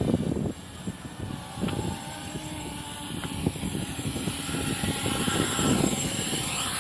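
Quadcopter's electric motors and propellers whirring, their whine gliding up and down in pitch as the speed changes.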